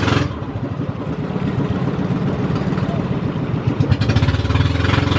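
Boat engine running steadily at an even pitch and speed, a constant low engine drone.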